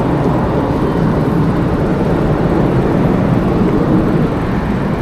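Steady, loud wind rush buffeting a bike-mounted action camera's microphone while cycling.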